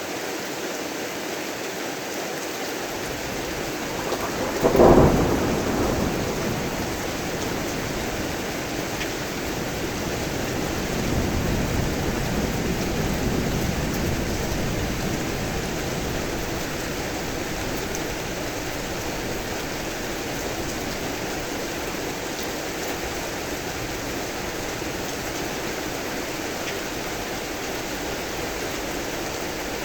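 Steady heavy rain with a sharp clap of thunder about five seconds in, followed a few seconds later by a low rumble of thunder that swells and fades over several seconds.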